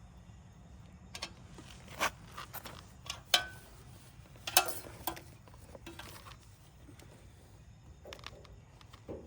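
Irregular clicks and knocks of hand tools and small parts being handled during carburetor work on a generator, with three sharper clinks in the first half.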